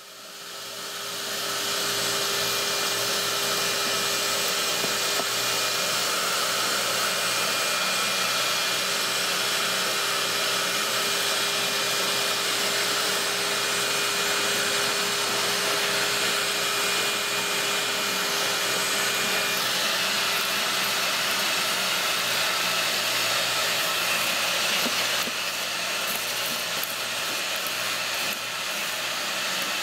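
Vacuum cleaner switched on, its motor spinning up over about two seconds into a steady whining rush while it sucks soot and debris out of an oil boiler. The tone shifts slightly a couple of times later on as the suction changes.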